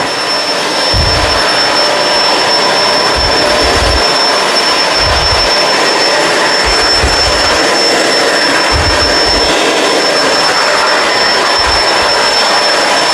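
Kenmore Crossover Ultra upright vacuum running at full suction, a steady loud rushing whine with a thin high motor tone over it. Low bumps come every second or two, without an even beat.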